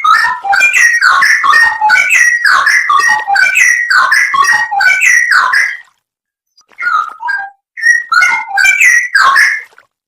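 Straw-headed bulbul (cucak rowo) singing loudly: a rapid run of whistled notes sliding up and down, for about six seconds, then after a short pause a second, shorter burst of song.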